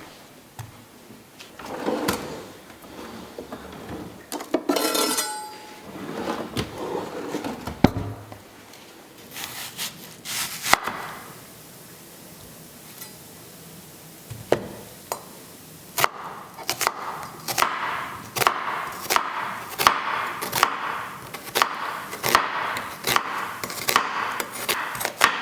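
Kitchen utensils and dishes being handled with knocks, clinks and rustling, including a brief clatter about five seconds in. Then a knife chopping steadily on a wooden cutting board, a little under two strokes a second, through the second half.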